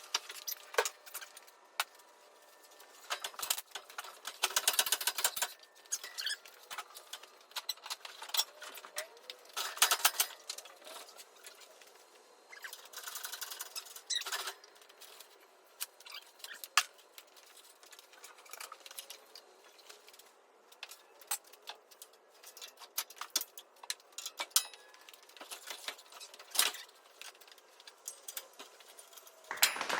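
Hand tools and metal engine parts clinking and rattling in scattered quick clicks, with busier clatter about four, ten and thirteen seconds in.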